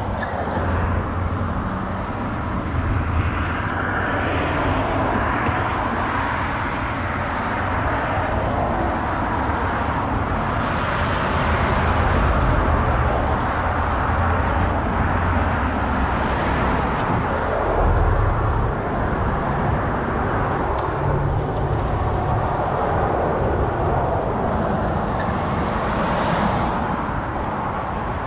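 Steady road traffic noise, with a few vehicles swelling louder as they pass.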